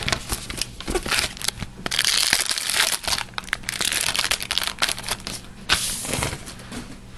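Crinkling and tearing of a hockey card pack's wrapper being opened, a dense run of sharp crackles that is heaviest in the middle.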